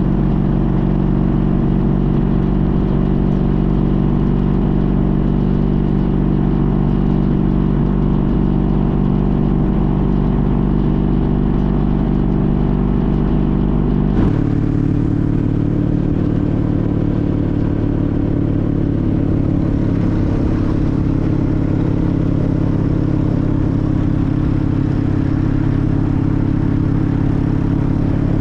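Engine of a 2014 Honda CTX1300 motorcycle, a V4, running steadily under way at a constant pitch. About halfway through its note changes abruptly to a new steady pitch.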